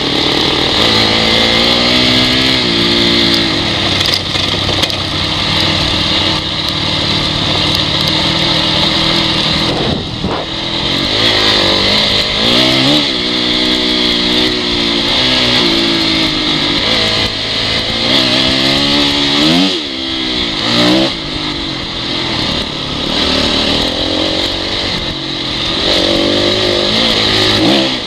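Honda CRF dirt bike's four-stroke single-cylinder engine, its revs rising and falling again and again as the throttle is opened and shut, over a steady hiss, with a few sharp knocks.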